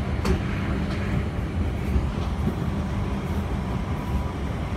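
Merseyrail electric passenger train running at speed, heard from inside the carriage: a steady low rumble of wheels on track, with a faint steady whine and a single sharp click shortly after the start.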